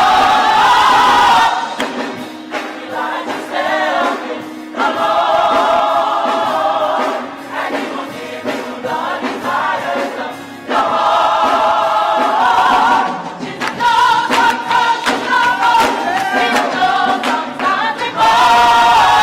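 A choir singing gospel music in long held phrases.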